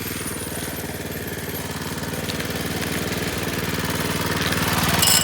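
Minibike's small engine running steadily while being ridden, getting gradually louder, with a short sharp noise near the end.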